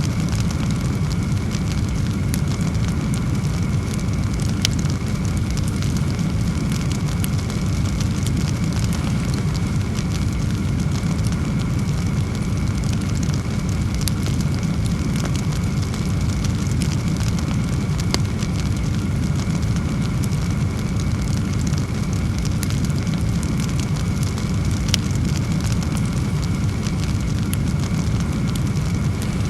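Burning logs: a steady low rush of flame with scattered sharp crackles and pops.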